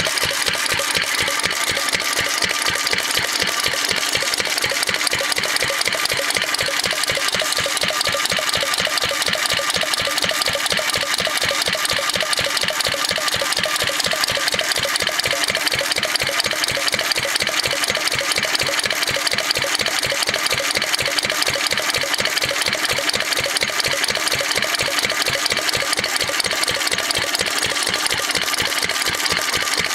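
Massey Harris R 30 4 HP single-cylinder stationary engine, the same as a Cushman Cub, running steadily at an even speed with a rapid, regular firing beat.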